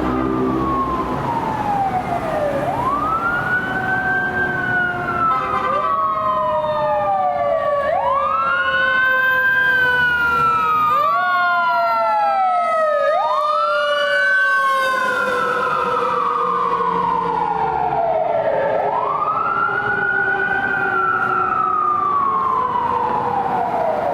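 Fire engine siren wailing, rising quickly and falling slowly about every five seconds, with a second siren tone sliding down alongside, over the low rumble of the truck.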